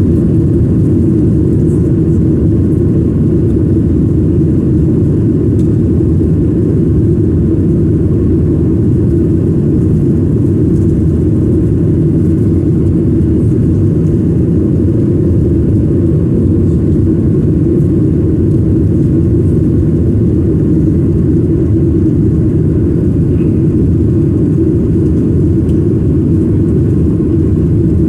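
Steady low roar of a jet airliner heard inside the cabin: engine and airflow noise, even and unbroken.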